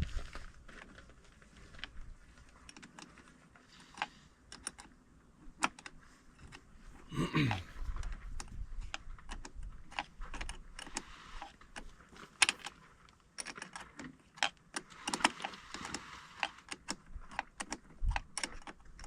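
Irregular metallic clicks and clinks of hand tools, a wrench or ratchet working on the tractor's battery terminals, with a brief sound falling in pitch about seven seconds in.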